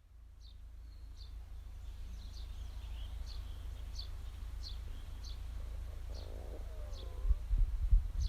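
A bird repeating a short, high chirp about every half second to second, over a steady low rumble that grows louder and bumpier near the end.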